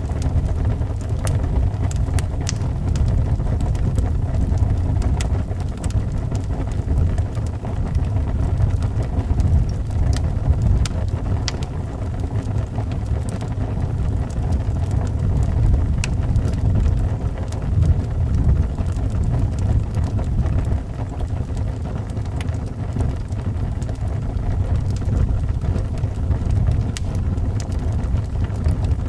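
Wind howling around a house as a steady low rumble, with the scattered sharp crackles of a fireplace fire over it.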